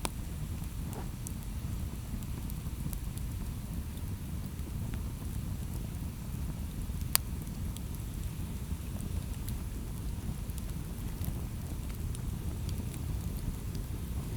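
Wood campfire burning: a steady low rumble of the flames with scattered small crackles, and one sharp pop about halfway through.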